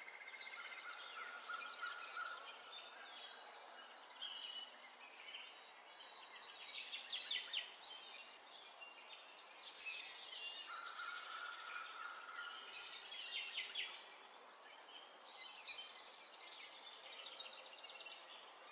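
Birds chirping and singing in high, rapid trills that come and go in bursts every few seconds, with a few short held whistled notes.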